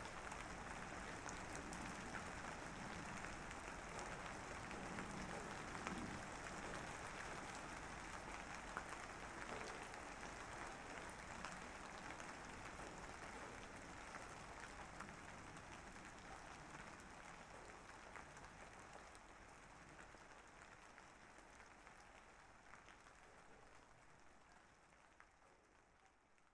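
Steady rain ambience: an even hiss with scattered faint drop ticks, fading out gradually through the second half.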